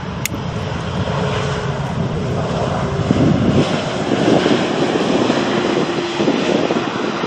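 Jet airliner on landing approach passing low overhead: a loud rushing engine noise with a faint steady whine, growing louder about three seconds in.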